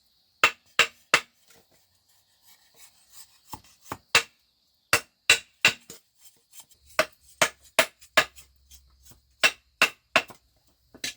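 Sharp knocks of a hand tool striking bamboo, in short runs of two or three blows with pauses between.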